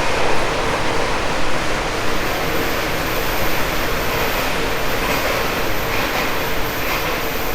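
Running noise inside a 189-series express electric motor car: wheels rumbling on the rails under a steady whine from its MT54 traction motors and gearing. The noise swells suddenly at the very start, then holds steady.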